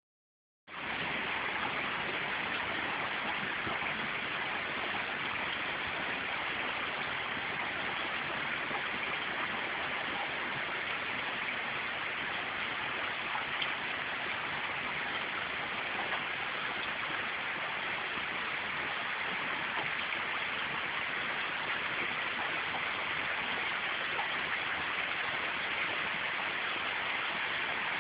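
Steady rain falling, an even hiss with a few faint drop ticks, starting abruptly just under a second in.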